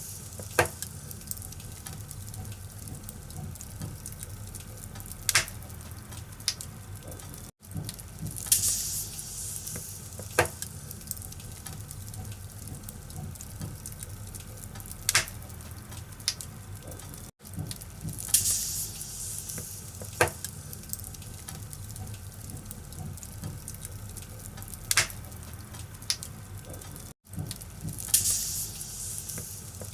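Wood fire crackling in a fireplace: a steady hiss of burning firewood with sharp pops every second or two. The same stretch of crackling repeats about every ten seconds, with a brief gap at each repeat.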